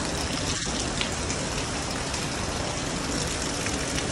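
Heavy rain falling steadily: an even hiss with a few louder drop ticks.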